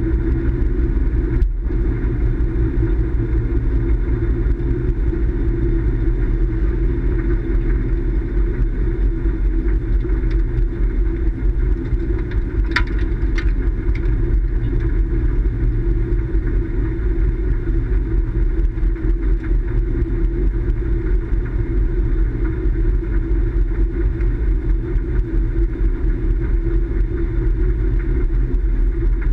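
Steady low rumble of a motor vehicle running without let-up, with a brief faint squeak about halfway through.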